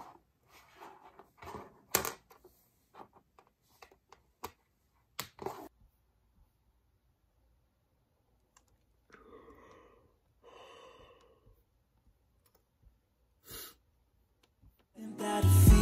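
Scattered light clicks and taps of small desk items being handled, irregular and about a second apart, with one sharper click about two seconds in. A soft rustle follows near the middle, then acoustic pop music with a strong beat comes in just before the end.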